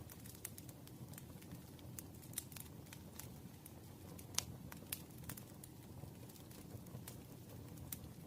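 Campfire burning: irregular crackles and pops over a low steady rumble of flame, with one sharper pop about halfway through.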